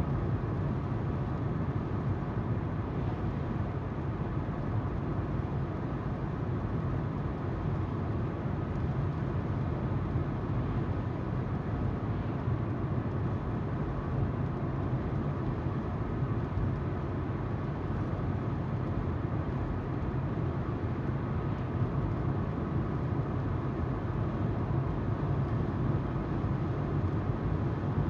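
Steady road noise heard from inside a moving car: tyres rolling on the road and the engine humming at an even speed.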